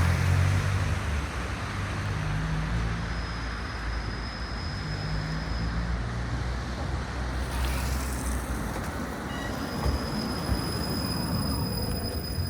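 Tram running along its track: a steady low rumble of the motors and wheels on the rails, with a thin high whine. A short hiss comes about eight seconds in.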